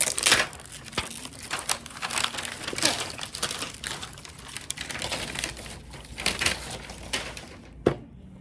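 Toy packaging crinkling and rustling as it is handled and unwrapped, with a sharp click about a second in and another near the end.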